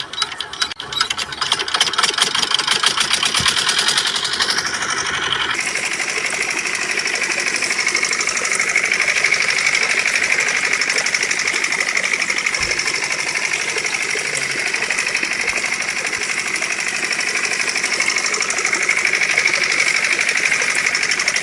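Miniature model engine running: rapid ticking that speeds up over the first few seconds, then settles about five seconds in into a steady, fast buzzing run.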